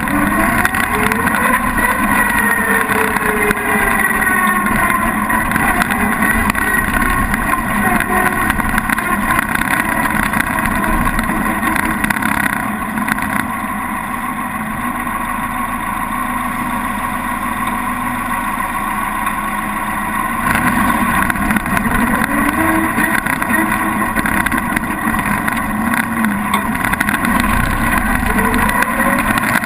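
Engine of the 1923 Diatto 20S vintage car running steadily under way, its pitch climbing a few times as it accelerates.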